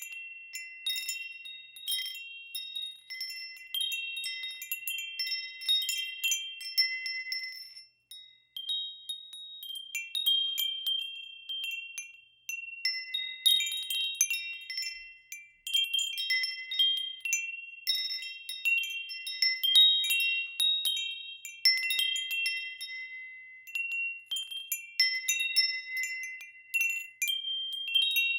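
Wind chimes ringing as the wind stirs them: a handful of high, bell-like tones struck in irregular clusters and overlapping as they ring on, with brief lulls about eight and twelve seconds in.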